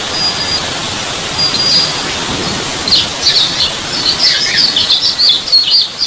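Small birds calling over a field: two short thin high whistles, then from about three seconds in a fast, continuous run of short high chirps, over a steady background hiss.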